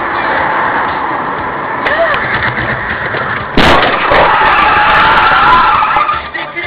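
Car driving with steady road noise, then about three and a half seconds in a sudden loud crash of a collision, followed by about two seconds of a loud, wavering high squeal.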